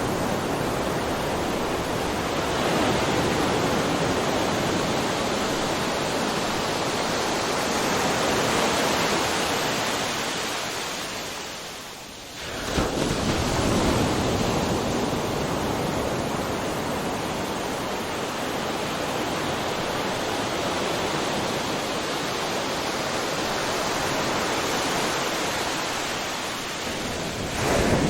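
Ocean surf: a continuous wash of breaking waves. About halfway through it sinks to a brief lull and then comes back abruptly, and it swells again near the end.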